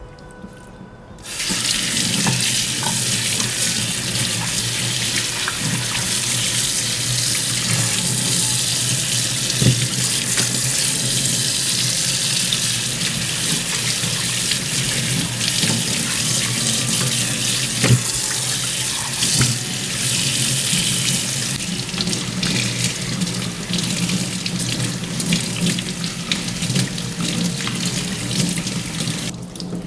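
Water running from a tap into a sink, turned on about a second in and shut off just before the end, with a few light knocks.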